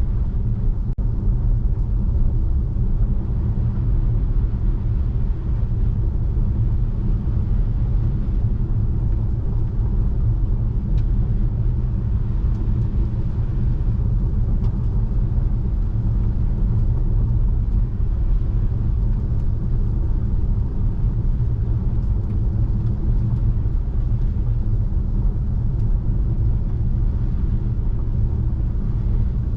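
Steady low rumble of a Tesla Model 3 driving on a snow-covered road: tyre and road noise, with no engine note from the electric car.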